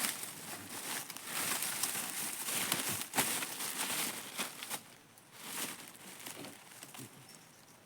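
Irregular rustling and crackling with many small clicks, louder in the first five seconds and fainter after.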